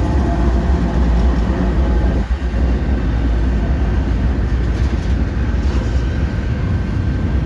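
Train running past, a loud steady rumble of heavy rolling noise with a deep low end.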